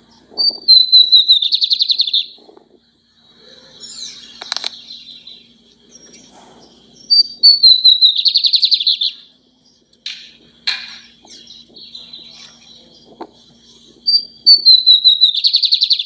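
Lined seedeater singing three song phrases, each a few short whistled notes stepping down in pitch that run into a fast buzzy trill, with brief softer chips between the phrases.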